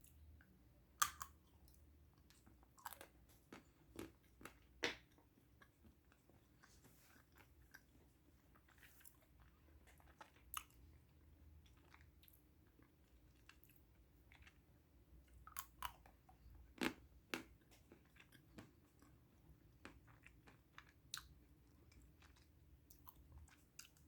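Handmade matcha chocolate cracking and crunching: a scattering of sharp snaps, the loudest about a second in, with others near five and seventeen seconds in.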